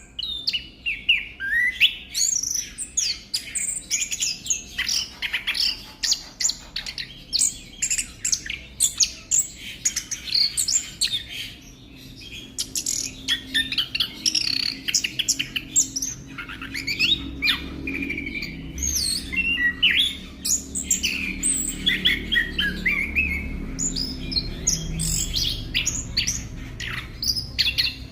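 Chestnut-capped thrush (anis kembang) singing a fast, continuous, varied song of quick whistled and chattering notes, with a low hum underneath in the second half.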